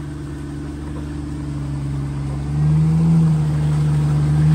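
Off-road 4x4's engine pulling under throttle. About two and a half seconds in it revs higher and gets louder.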